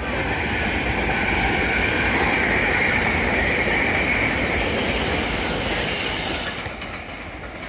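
A SEPTA Regional Rail commuter train passing close by. The rumble of its wheels on the rails builds to a peak midway and fades near the end, with a high-pitched wheel squeal over it.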